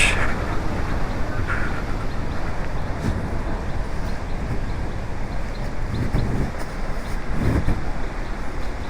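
Monsoon-swollen waterfall: heavy water rushing and plunging into a gorge as one steady, dense noise.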